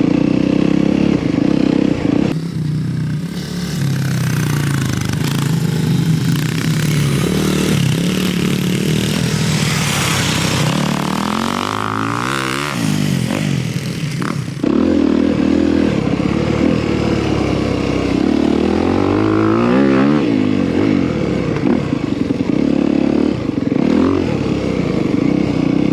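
Dirt bike engines running under load, the engine note rising and falling as the throttle opens and closes. Twice, about twelve and twenty seconds in, the pitch of a bike sweeps up and then down.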